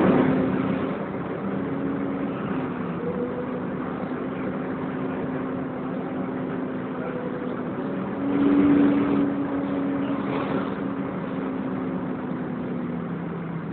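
Volvo B10BLE single-deck bus under way, heard from inside the cabin: a steady drone of engine and cooling fan with several low hums. One hum swells louder for about a second, around eight seconds in.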